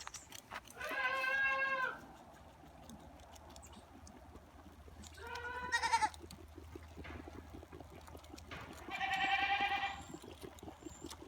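Boer goat kids bleating three times, each call lasting about a second; the last is higher-pitched and quavering.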